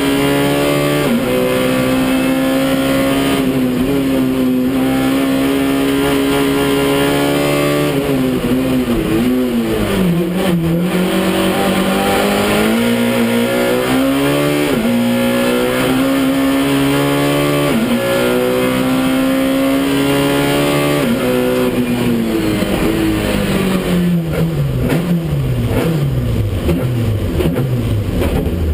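Peugeot 106 competition car's four-cylinder engine heard from inside the cabin, held at high revs under hard acceleration with brief dips at gear changes. About eight seconds in the revs fall sharply and climb back, and from about 22 seconds on they drop away repeatedly in falling sweeps as the car slows.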